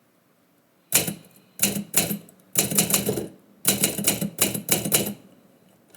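Typewriter keys striking the paper in uneven bursts, about a dozen strikes starting about a second in, with a pause between the clusters.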